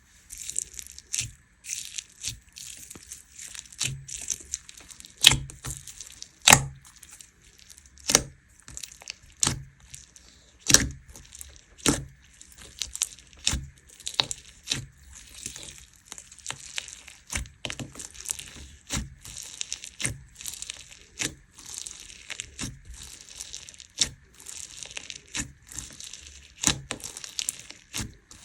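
Crunchy slime being squeezed and stretched by hand: a steady crackling and crinkling with frequent sharp pops and snaps.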